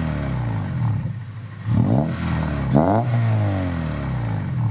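Car engine being revved: the pitch drops from a rev, then climbs sharply twice in quick succession, about two and three seconds in, each time falling back toward idle.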